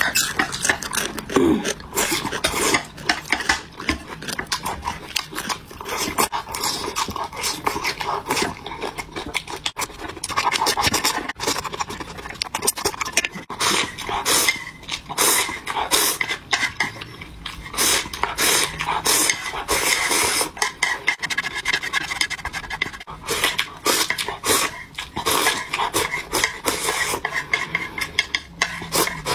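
Close-miked eating: loud chewing and crunching of soy-sauce-dressed vegetables and slurping of sorghum rice in cold water, a dense run of quick sharp clicks with breathy mouth noise.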